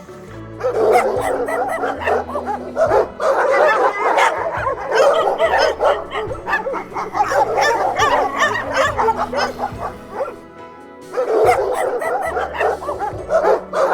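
Dogs yipping and whimpering in quick, overlapping calls, with a short break a little past two thirds of the way through, over background music with a steady bass line.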